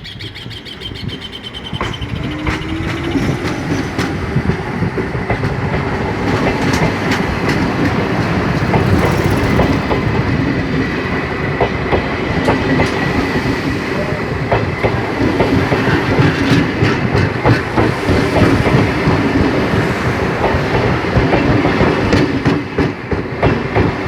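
Toshiba electric multiple-unit train pulling away from a station. A steady whine comes over the rumble and the clickety-clack of wheels on rail joints, and the sound grows louder over the first few seconds as the train gathers speed.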